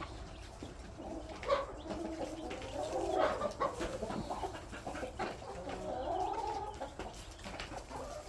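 A flock of backyard laying hens clucking and calling over one another, a busy, continuous chatter.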